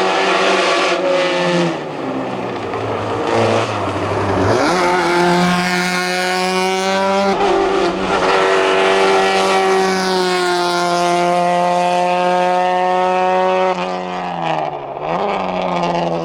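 Seat 127 hillclimb car's four-cylinder engine driven hard up the course. The revs climb and drop at gear changes about two and four and a half seconds in, then hold high for most of the run. Near the end they dip briefly and pick up again.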